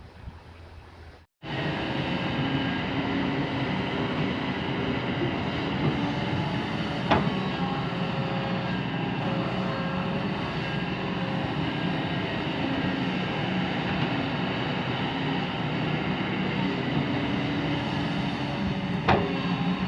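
Kobelco SK200 excavator's diesel engine running steadily under load, starting abruptly after a quieter first second and a short gap. Two sharp knocks stand out, about seven seconds in and near the end.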